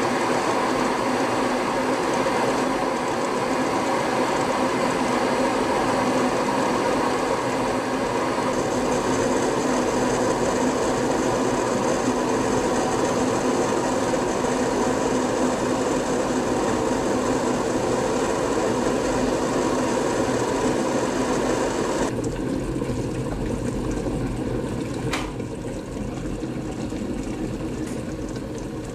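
Next Dial Cream electric kettle, 2.2 kW and filled to 1.7 litres, coming to a full rolling boil with a loud, steady rumbling hiss. About three-quarters of the way through, the noise drops suddenly and then dies away slowly as the boil ends, with a single click a few seconds after the drop.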